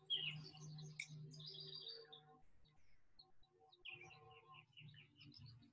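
Faint birdsong: scattered short high chirps, then a quick run of repeated notes about four seconds in, over a faint low hum.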